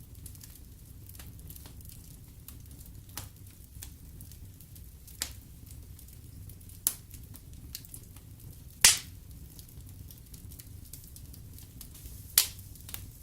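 Wood fire crackling in a fireplace: a steady low rumble of flames with scattered sharp pops, the loudest a little under nine seconds in and another strong one near the end.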